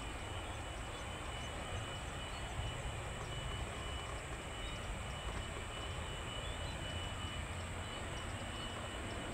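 Steady low outdoor rumble with a faint, steady high-pitched tone above it.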